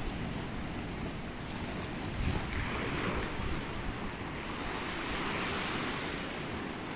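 Sea surf washing in and drawing back, with one wave swelling about two and a half seconds in and easing off. Wind rumbles on the microphone underneath.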